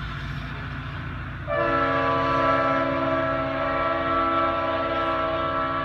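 Leslie RS-5T five-chime air horn on a diesel locomotive sounding one long, steady chord starting about one and a half seconds in, over the low rumble of the passing train.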